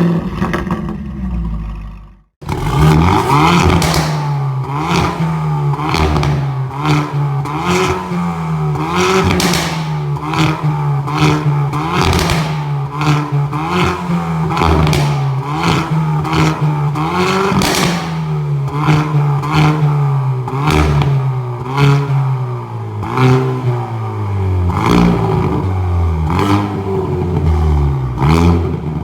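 Hyundai i30 N's 2.0-litre turbo four-cylinder, through a custom stainless sport exhaust with active valves, blipped up and down repeatedly. Crackles and pops come on each lift-off. The engine note comes in suddenly about two seconds in, after a brief quiet.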